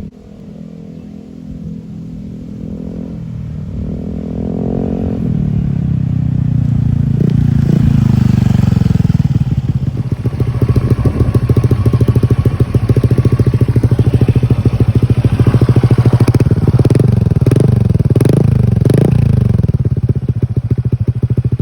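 Honda Click 125i scooter's single-cylinder engine through an aftermarket Akrapovic exhaust, growing louder over the first several seconds and then running steadily. Near the end it is revved up and down about four times in quick succession.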